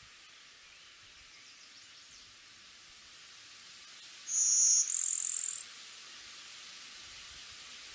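A small songbird gives two high-pitched notes in quick succession, the second a little higher and longer, over a steady hiss.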